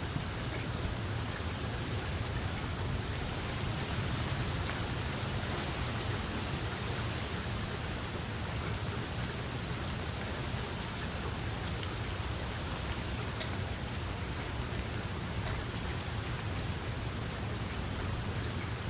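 Steady rain falling, an even hiss with a steady low rumble underneath and a few faint drop ticks.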